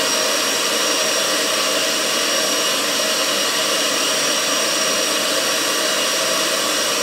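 Vacuum cleaner blower running steadily, a high whine over a loud rush of air, blowing air through a homemade steel-pipe gas burner. The airflow might be a bit too strong for the burner.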